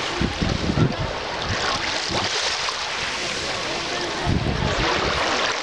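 Sea waves washing on the beach, with wind gusting on the microphone about half a second in and again near the end.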